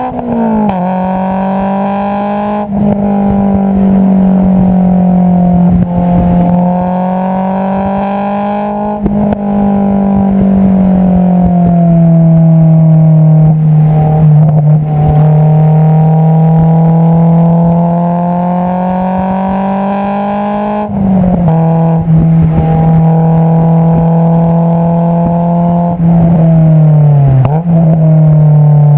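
Exhaust note of an AP2 Honda S2000's 2.2-litre inline-four through an Invidia Q300 exhaust, heard close at the tailpipe while driving. The pitch rises and falls slowly with engine speed and drops suddenly near the start, about 21 seconds in and again near the end, as with gear changes.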